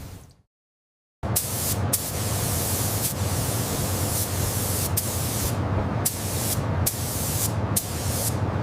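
A short dead-silent gap, then a steady, loud hiss with a few sharp clicks scattered through it.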